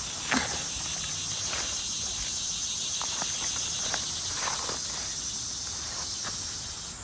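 Steady high-pitched chorus of insects, with scattered footsteps.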